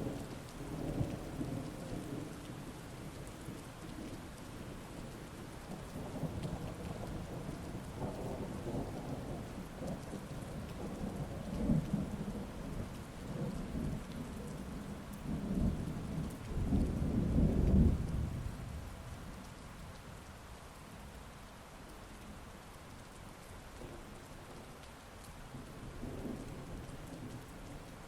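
Heavy rain falling steadily with rolling thunder: the thunder rumbles through the first two-thirds, building to its loudest swell about two-thirds of the way in, then dies away to rain alone with a faint last rumble near the end.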